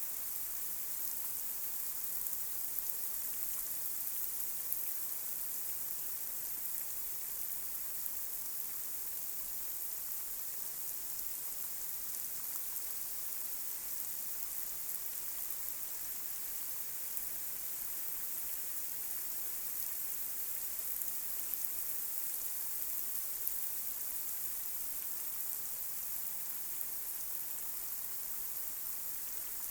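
Light rain falling on a street: a steady hiss of rain with small drop ticks scattered through it.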